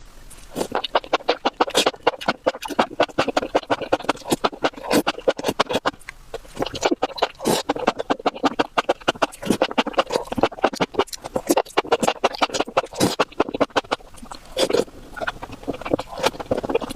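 Close-miked eating sounds: rapid, irregular crunching and chewing, several crisp bites a second with brief pauses.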